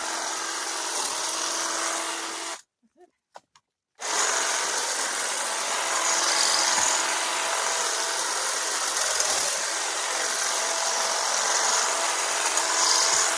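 Electric garden cutting tool running with a steady buzz. It stops dead about two and a half seconds in, starts again a second and a half later, and runs steadily until it stops just before the end.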